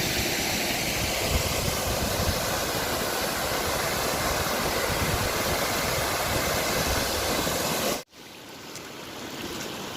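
Steady rush of a waterfall's falling water, an even noise with no pitch; about eight seconds in it cuts off abruptly to a much quieter hiss.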